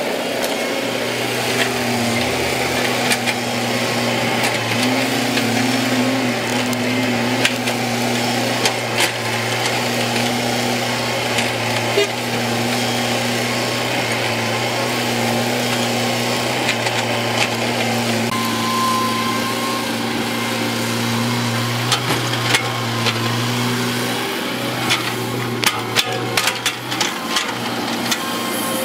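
Heavy diesel earth-moving machinery running steadily with a low, even engine hum, overlaid with scattered sharp knocks and clicks that come thickest near the end.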